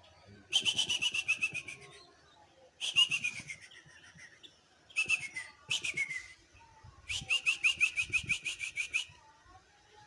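A songbird calling in four bursts of fast, evenly repeated downslurred whistled notes, about eight to ten notes a second, with short pauses between the bursts.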